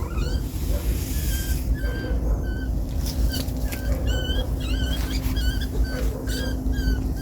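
Many short, high-pitched animal calls, repeated several times a second, over a steady low rumble.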